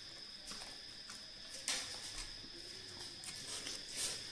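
Chewing and wet mouth smacks of someone eating a handful of chow mein noodles, a few short smacks standing out, over a steady high-pitched tone.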